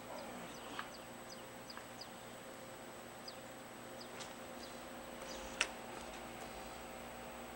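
Faint, high bird chirps repeating at irregular intervals over a steady hum, with one sharp click a little after halfway.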